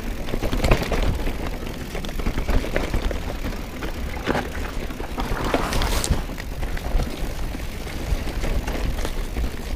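Mountain bike being ridden along a dirt trail: a steady wind rumble on the microphone with tyre noise, and scattered clattering knocks from the bike over bumps.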